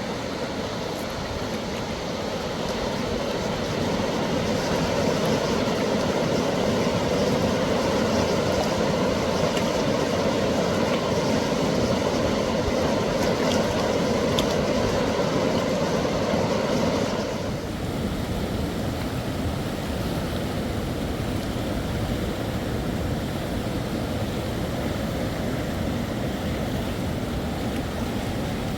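Steady rushing of a fast-flowing river. About seventeen seconds in, it drops suddenly to a quieter, duller rush.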